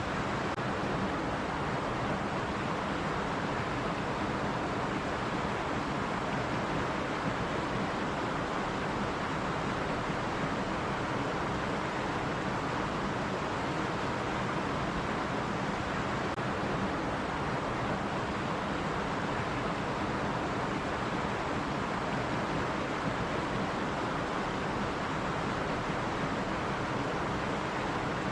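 Stream water running over rocks: a steady, even rush with no breaks.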